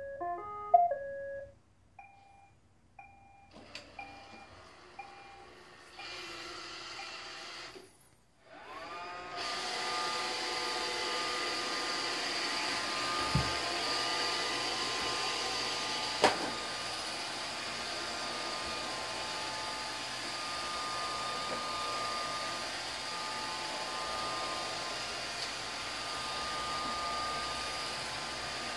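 iRobot Roomba 620 robot vacuum playing a short electronic tune and a few beeps, then its motors spinning up in steps and running with a steady whirr. A dull bump and a sharp click come partway through as it cleans.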